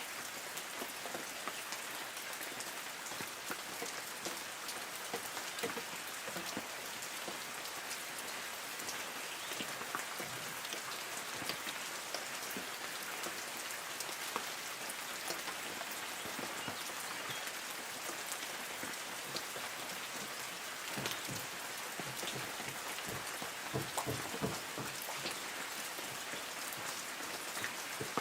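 Light rain falling on forest trees: a steady patter of drops on leaves, with a few heavier drips standing out now and then.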